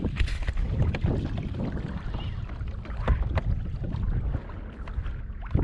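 Wind rumbling on the microphone aboard a kayak, with scattered knocks and splashes.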